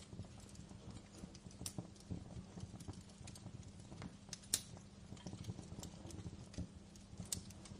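Wood fire crackling in a fireplace: irregular small pops and snaps over a low steady background, with one sharper pop about four and a half seconds in.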